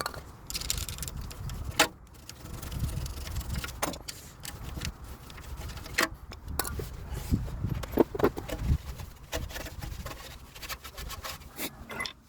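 Hand tools clicking and clinking on metal during work at a car's wheel hub, in many short irregular knocks over a low rumble.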